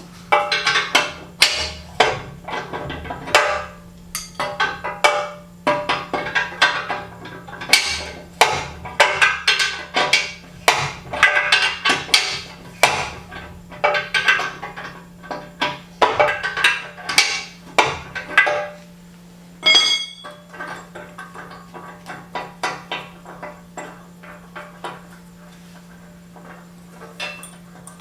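Metal band saw parts and hand tools knocking and clanking against each other as the saw is taken apart, a quick irregular run of ringing metallic hits that thins out about two-thirds of the way in. A steady low hum runs underneath.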